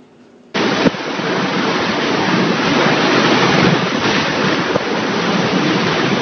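Strong storm wind, a loud even rush that cuts in abruptly about half a second in and keeps up steadily, with a brief knock just after it starts.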